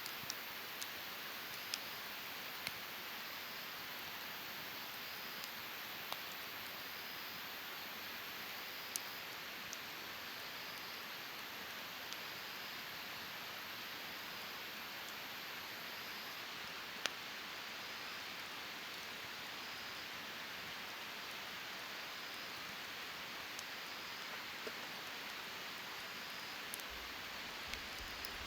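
Wood fire burning in a fire stand: a steady hiss with sparse sharp crackles and pops, one every second or few.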